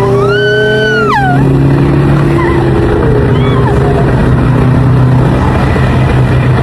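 Car engine running steadily with a constant low drone; in the first second or so a voice calls out in long gliding tones over it.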